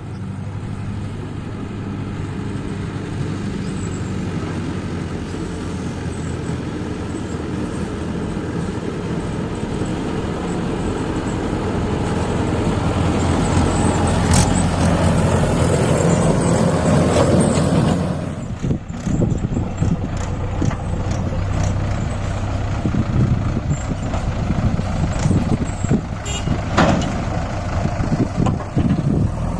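Mahindra 585 tractor's diesel engine labouring under heavy load while hauling a fully loaded soil trolley. The engine grows louder through the first half, then drops suddenly about 18 seconds in and runs unevenly. There are a couple of sharp clicks along the way.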